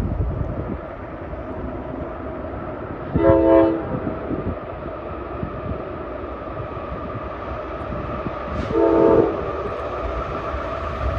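Train horn giving two short blasts, one about three seconds in and the second about five seconds later, over the steady rumble of a train running close by.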